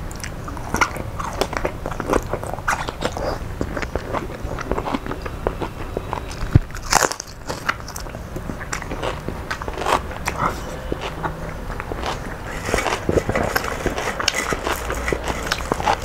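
Close-up eating sounds: chewing with sharp crunches and crackles. About seven seconds in comes the loudest crunch, a bite into a raw red onion. Near the end a denser crackling sets in as crisp fried pumpkin leaves are grabbed from a metal pot.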